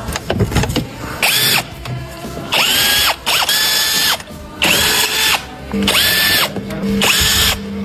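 Small electric power tool run in about six short bursts on a damaged plastic car bumper during repair, each burst spinning up quickly to a steady high whine before cutting off.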